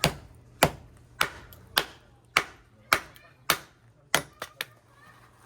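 Firewood being split for a fire pit: a steady run of sharp chopping strikes, about one every 0.6 seconds, with two quicker, lighter taps near the end.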